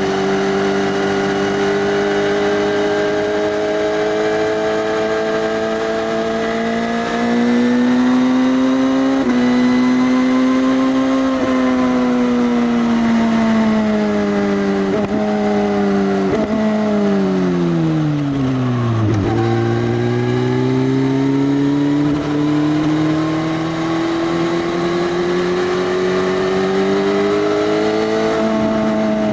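2018 Suzuki GSX-S1000's inline-four engine through an Arrow Race Tech full exhaust system with the dB killer removed, ridden through the gears. The revs climb with a couple of shifts, then drop with two quick downshift blips to low revs about two-thirds in, and climb steadily again under acceleration.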